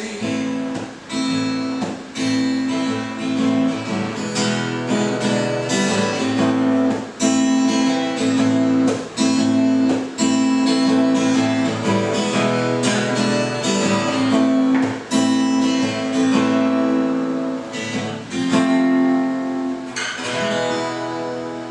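Acoustic guitar strumming chords at a steady pace, each chord left to ring; the playing eases off and fades near the end.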